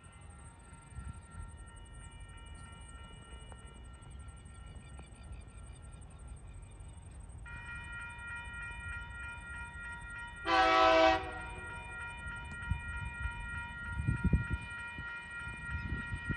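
Level-crossing warning bells ringing steadily as TasRail locomotive TR16, a diesel locomotive, approaches with a low engine rumble that grows louder toward the end. About ten seconds in the locomotive sounds one short, loud horn blast.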